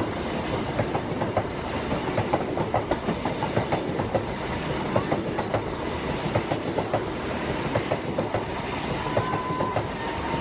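Class 90 electric locomotive-hauled passenger train passing over the level crossing at speed, its wheels giving a rapid, steady run of clicks over a continuous rumble.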